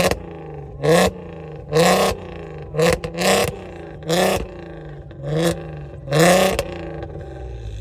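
Car engine being revved in quick throttle blips: about seven short rising revs, roughly a second apart, each dropping back to a steady idle.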